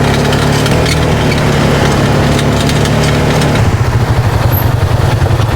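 Polaris RZR 570 side-by-side's single-cylinder engine running as it drives along a dirt trail. About two-thirds of the way in the engine note drops and turns into an uneven, pulsing low beat as it eases off the throttle.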